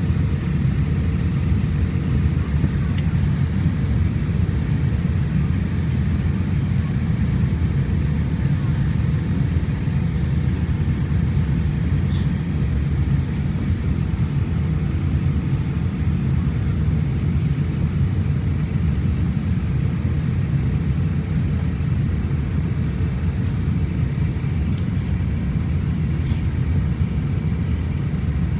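Cabin noise inside an Airbus A350-1000 airliner: a steady low rumble from the engines and airflow, with a faint high whine, holding level throughout.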